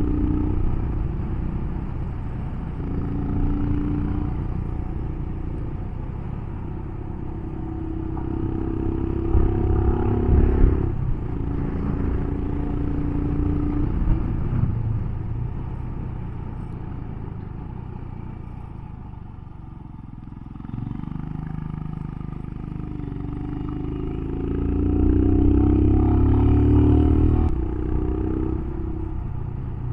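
Royal Enfield Himalayan's single-cylinder engine pulling uphill on a winding mountain road, its pitch rising and falling with throttle and gear changes. It eases off about two-thirds of the way through, then pulls loudest near the end.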